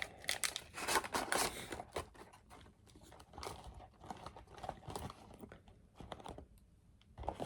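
Crinkling and rustling of a granola bar's wrapper being handled, loudest and densest in the first two seconds, then lighter scattered rustles and ticks.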